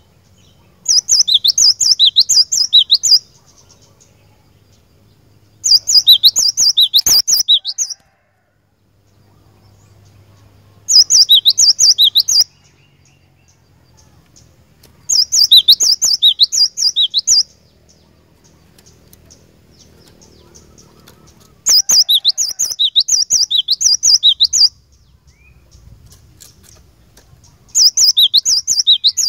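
Cinereous tit (glatik batu) singing: six loud phrases of fast, repeated high whistled notes, each phrase lasting two to three seconds, with pauses of a few seconds between them.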